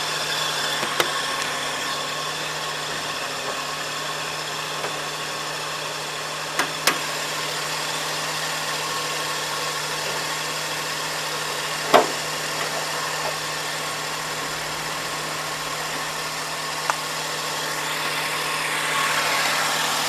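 2006 Suzuki Wagon R's three-cylinder engine idling steadily with a groaning noise from the front of the engine, which the mechanic takes for a failing water pump. A few short clicks, the sharpest about twelve seconds in.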